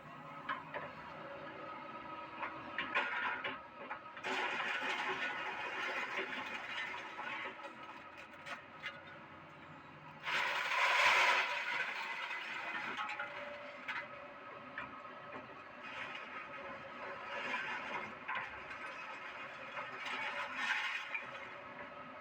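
Doosan excavator running as it works, a steady machine sound with two louder, noisier stretches about four seconds in and about ten seconds in, the loudest around eleven seconds, and scattered short clicks.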